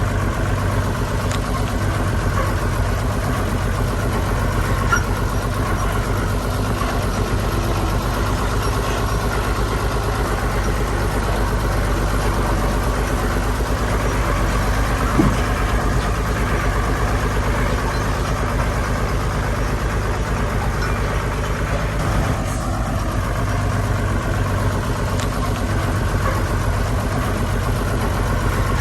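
Heavy diesel engine of earthmoving machinery running steadily, with a single brief knock about halfway through.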